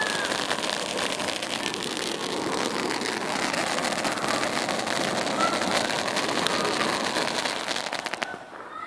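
A firework spraying sparks with a steady loud hiss and dense crackling, cutting off abruptly near the end.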